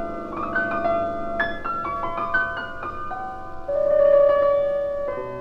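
Background piano music, gentle single notes in a slow flowing line, with one note held longer near the end.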